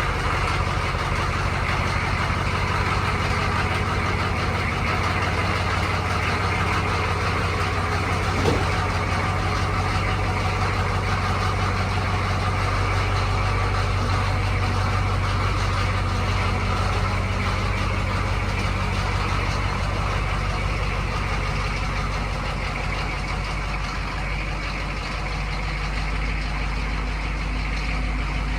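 1985 Chevrolet K10 Suburban's 6.2-litre Detroit Diesel V8 idling steadily, still cold after a cold start. A brief click about a third of the way in.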